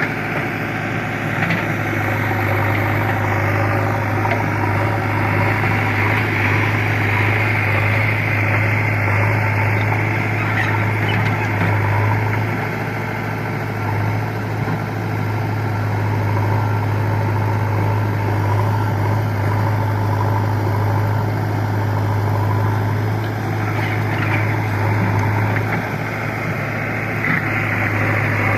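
Heavy diesel engine running steadily with a deep, even hum, dipping slightly in level a couple of times.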